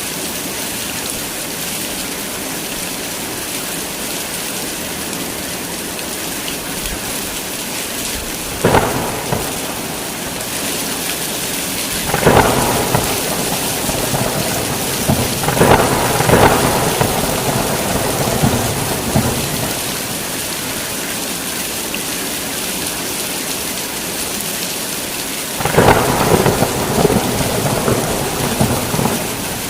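Heavy rain falling steadily, with thunder breaking in four times: a short crack, then longer rolling rumbles, the last one near the end.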